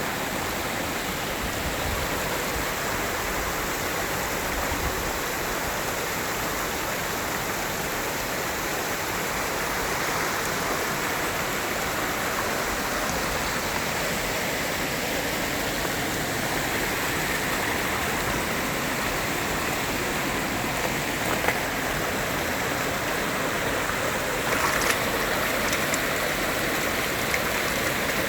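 Stream water flowing steadily over rocks, a continuous rushing babble, with a few brief clicks about three-quarters of the way through.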